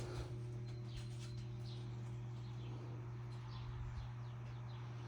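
Mainstays 42-inch hugger ceiling fan running with a steady low electrical hum. Faint short high chirps come and go over the hum.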